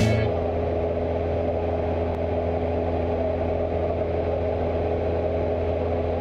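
Cessna 172 engine and propeller droning steadily at a constant pitch in flight.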